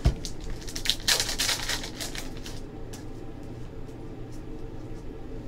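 Trading cards being handled: a sharp click right at the start, then a quick run of flicks, slides and rustling for about two seconds that thins out to occasional soft clicks.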